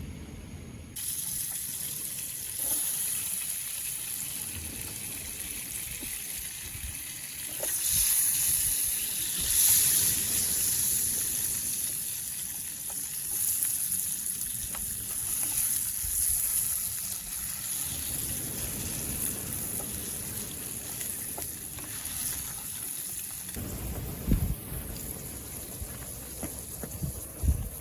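Sea waves washing onto the beach, swelling and easing, loudest about eight to ten seconds in. Near the end there are gusts of wind buffeting the microphone.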